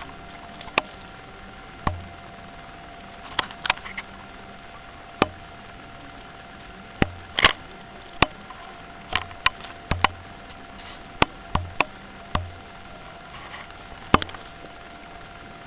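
Wood fire crackling: sharp pops and snaps at irregular intervals, one or two a second, over a faint steady tone.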